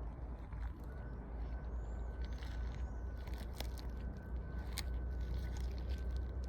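Outdoor forest ambience: wind rumbling on the microphone under a steady hiss, with faint high bird chirps, a thin steady whine from about a second in, and two sharp clicks in the middle.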